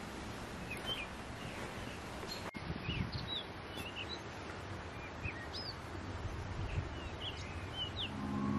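Small birds chirping, many short quick calls scattered over a steady background hiss of outdoor ambience. Near the end, music with mallet-percussion notes comes in.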